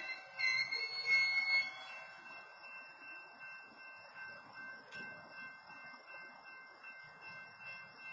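Freight car wheels and brakes squealing as the train creeps to a stop over the first two seconds, over the steady electronic ringing of a railroad crossing warning bell, which goes on alone after the squeal dies away.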